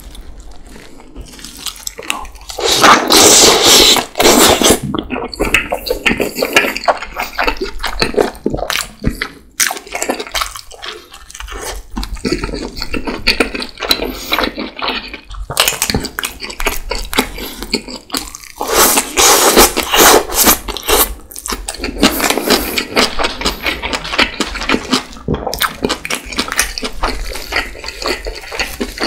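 Close-miked wet, juicy chewing and mouth sounds of someone eating steamed Uzbek lamb-and-onion dumplings, a dense run of small smacks and clicks. Two louder wet stretches stand out, one about three seconds in and one about two-thirds of the way through.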